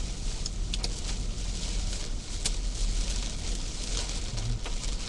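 Heavy rain and hail pouring down in a strong wind: a steady rushing noise with a low rumble of wind, broken by scattered sharp ticks of hailstones striking.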